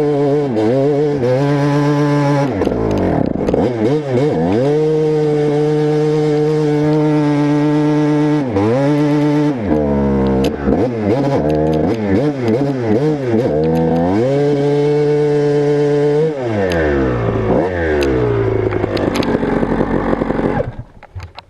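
Motocross bike engine under hard riding, revving up and backing off again and again as the rider works the throttle and gears. Near the end the revs fall away and the engine sound drops off sharply.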